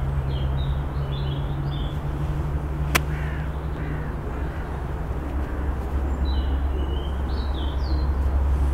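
Birds calling outdoors in two flurries of short chirps, over a steady low hum. A single sharp click comes about three seconds in.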